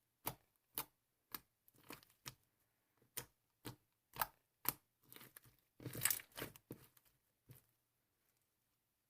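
Short crinkling and tearing sounds, in separate crackles about every half second, bunching together near the middle and stopping about a second and a half before the end.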